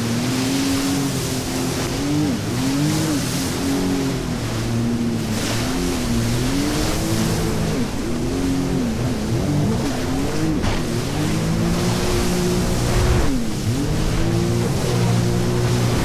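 Jet ski engine running at speed, its pitch dipping and climbing again and again as the throttle is eased and opened, over the hiss of water spray and wind.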